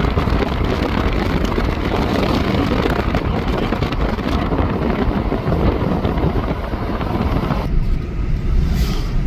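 Car driving, road and wind noise: a steady, loud rumble and rush. The higher part of the rush drops away near the end, leaving the low rumble.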